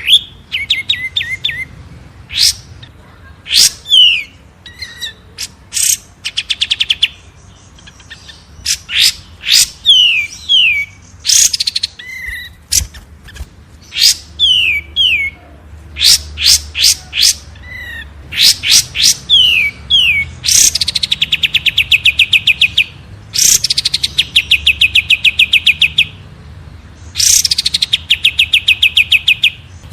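Caged songbirds singing: loud, sharp high chirps, quick falling whistled notes, and long rapid trills of evenly repeated notes, in phrases with short pauses between them. The longest trills come about two-thirds of the way in and again near the end.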